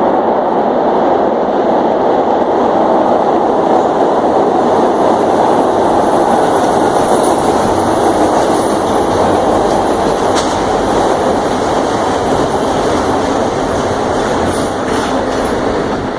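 Train running on the rails: a loud, steady rumble of wheels on track.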